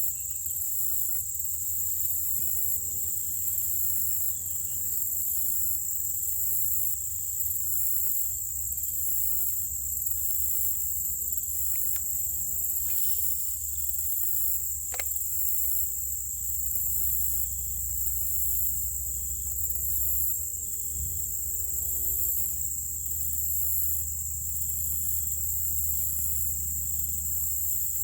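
Steady, high-pitched chorus of insects with a fast, even pulse, over a low rumble.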